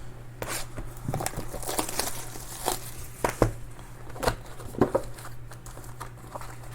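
Trading cards and their packaging being handled, with scattered light taps and short crinkling rustles.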